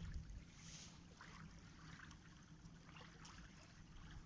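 Near silence: faint lapping of water along the reservoir shore over a low rumble.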